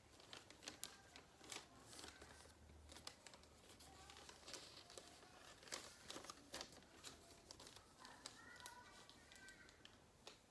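A sheet of calendar paper being folded and creased by hand, with faint irregular crinkles and sharp rustles.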